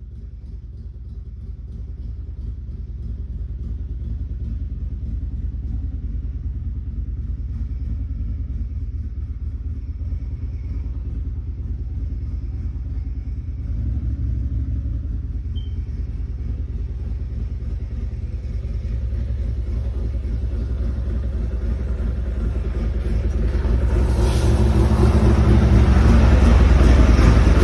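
Harley-Davidson Evolution 1340 air-cooled V-twin running on its own after a cold start, a steady low rumble that slowly grows louder and gets fuller and harsher near the end.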